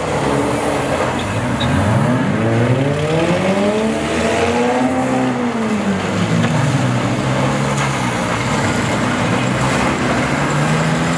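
Engines of several wrecked demolition-derby cars running and revving. One climbs in pitch from about two seconds in, peaks near five seconds and drops back, while others hold a steady note.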